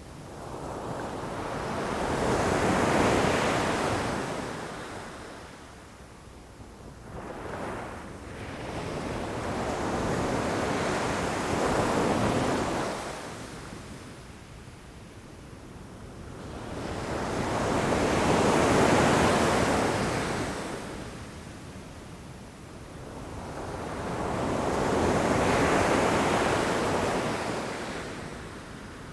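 Ocean waves breaking against rocks. About four slow surges build over a few seconds, wash loudly and fall away again.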